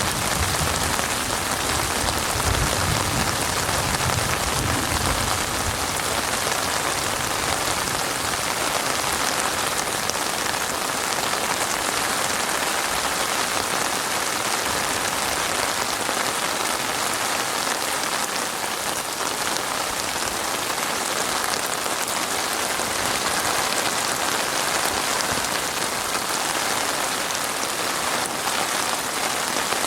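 Heavy rain falling steadily, a dense even hiss of drops on surfaces, with a low rumble dying away in the first few seconds.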